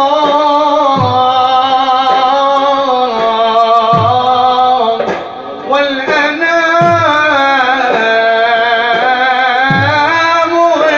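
Arabic religious praise song (madih): a male singer draws out long, ornamented notes over instrumental accompaniment, with a low beat about every three seconds. The line drops away briefly about five seconds in, then resumes.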